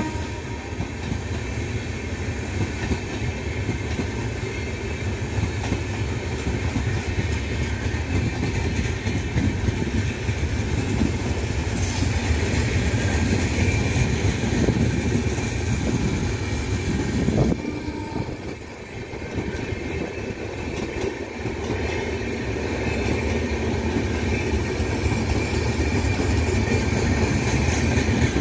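Coaches of a departing express train rolling past over the rails: a steady rumble with wheel clatter over the rail joints, a few sharp clicks, and a brief dip in loudness about eighteen seconds in.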